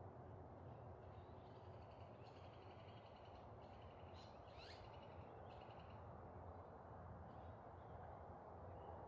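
Faint birds calling over a steady low background hiss: high chirps and trills from about a second and a half in until about six seconds, with one quick rising whistle near the middle.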